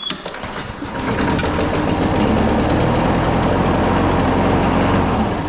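Walk-behind lawn mower's small single-cylinder engine pull-started on a primed carburetor, catching and running for a few seconds, then starting to die away near the end: it runs only on the primer's fuel and is not getting good fuel.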